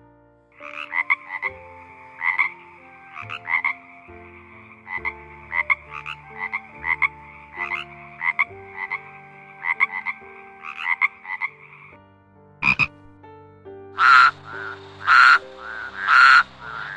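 Frogs croaking: a steady trilling chorus with repeated pulsed calls, which stops about twelve seconds in. After a short gap, louder croaks come about once a second near the end.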